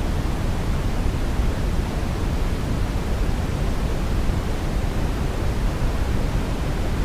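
Steady sleep-aid white noise, heavier in the low end than the top, like a deep, even hiss. It runs without change.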